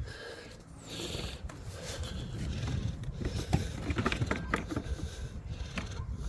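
Rubbing and scraping as clogged grass clippings are cleared by hand from an electric lawnmower's vent. A run of small clicks and scrapes starts about halfway through, over a low rumble.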